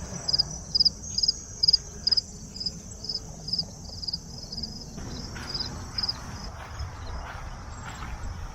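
Crickets chirping: a regular run of short high chirps about two a second, fading out about six seconds in, over a steady high insect trill.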